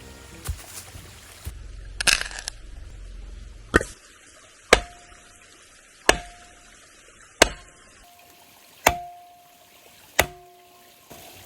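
Firewood being split by hand: about six sharp chopping strikes into wood, evenly spaced about a second and a half apart, several leaving a brief ringing tone.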